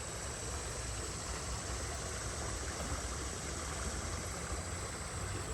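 Small spring creek's water running with a steady, even rush.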